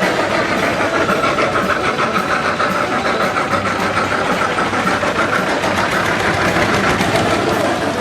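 Engine running steadily with a fast, even beat.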